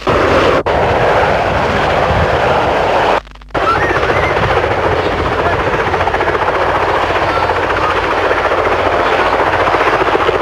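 Westland Wessex helicopter running steadily overhead, its rotor beating fast, with two brief dropouts in the sound about half a second and three seconds in.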